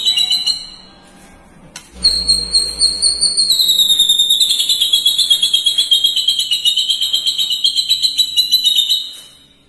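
Long, rapid, high-pitched chattering trill of the lovebird 'ngekek' type. One stretch fades out just after the start; a second begins about two seconds in, sinks slightly in pitch and runs about seven seconds before stopping.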